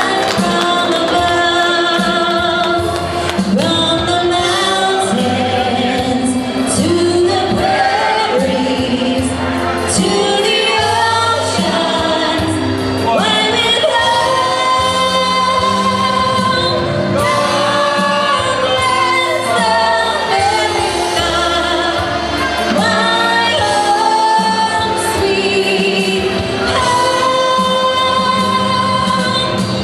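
A singer performing a song over instrumental backing, with long held notes that waver in pitch.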